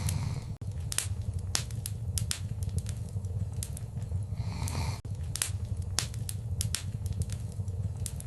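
Wood fire crackling, with irregular sharp pops and snaps over a low steady rumble of the flames, and a brief soft hiss about halfway through.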